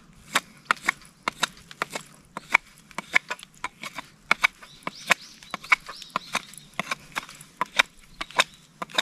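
Japanese nata hatchet chopping wood in quick, light strokes, about three sharp strikes a second, some harder than others.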